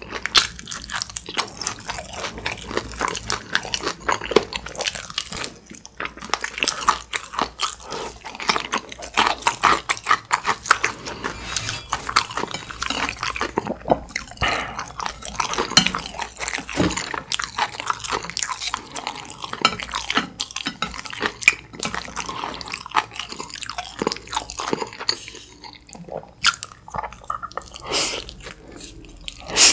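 Close-miked chewing and wet mouth sounds of eating sauced fried chicken and black-bean instant noodles: irregular smacks, clicks and crunches throughout.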